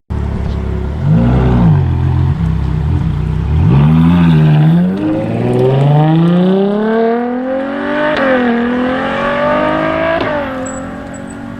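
A high-performance car engine blips its throttle twice, then accelerates hard, its pitch climbing steadily with a brief dip at an upshift about eight seconds in. The sound breaks off sharply about ten seconds in, leaving a lower, quieter engine note.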